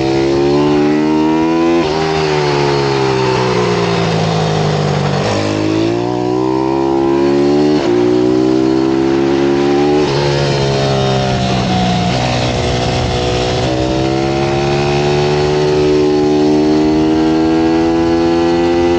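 Pit bike engine under hard acceleration, its pitch climbing and then dropping sharply at each gear change, several times over; it then holds a fairly steady, slowly rising note.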